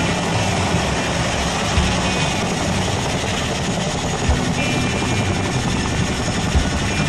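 Boeing CH-47 Chinook tandem-rotor helicopter running, a loud, steady rush of rotor and turbine noise with a few low thumps.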